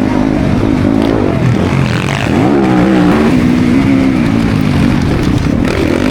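Motocross bike engine revving hard under race throttle. Its pitch rises and falls over and over as the throttle is opened and shut.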